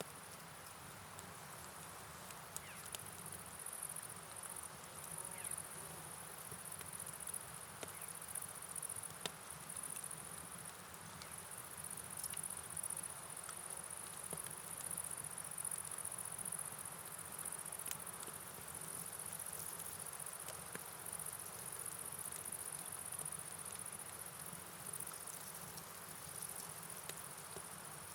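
Night ambience of crickets: a steady, high-pitched insect trill over a soft, even wash of rain and flowing water, with scattered light ticks.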